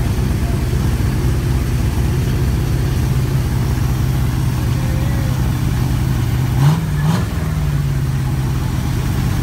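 Freshly built Factory Five Roadster kit car's engine idling steadily on its first start, revved twice in quick succession about seven seconds in before settling back to idle.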